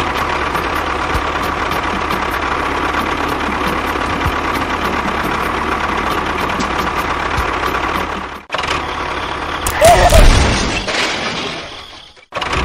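A small motor running steadily with a constant whine. After a short break about eight seconds in, a different, noisier stretch follows, swelling loud about ten seconds in and then fading away.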